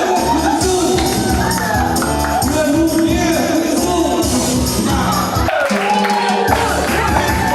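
Singing into a microphone over a loud backing track with a steady beat; the bass briefly drops out a little past the middle.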